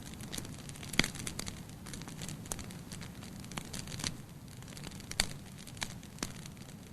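Campfire crackling: irregular sharp pops and snaps of burning wood over a low steady hiss, with louder pops about a second in and about five seconds in.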